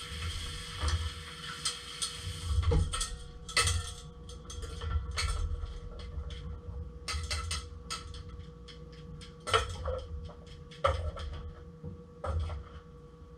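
Kitchen clatter: irregular knocks and clinks of utensils and cookware being handled, with a few duller thuds, over a faint steady hum.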